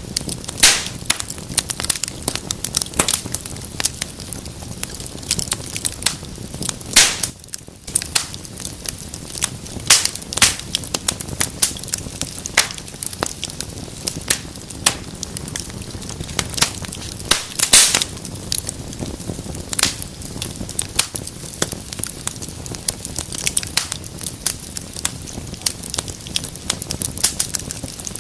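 Wood fire burning in a fireplace: a steady low hiss with frequent irregular crackles and sharp pops, a few of them much louder than the rest.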